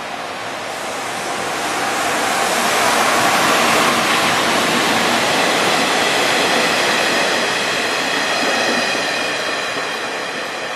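EF210 electric locomotive passing on the nearby track, hauling KiHa 185 diesel railcars. Its wheels and rails make a loud, steady rush that builds over the first few seconds, holds, and eases near the end. A faint high whine of several tones runs through the middle.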